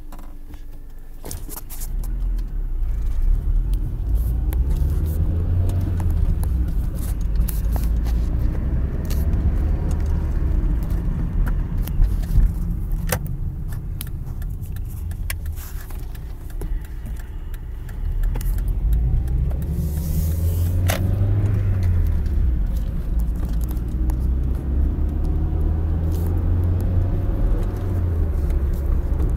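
Mazda Protege5's four-cylinder engine and road noise heard from inside the car while driving, the engine note rising as it accelerates and dropping at the shifts, twice over. Somewhere under it is a small odd noise that the owner guesses may be an alternator bearing.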